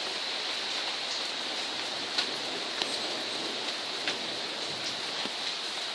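Steady rain falling, with a few sharp drips tapping close by scattered through it.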